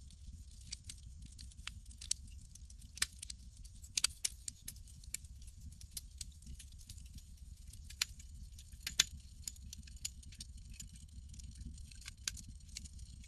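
Campfire crackling: irregular sharp pops and ticks at an uneven pace, a few louder than the rest, over a steady low rumble.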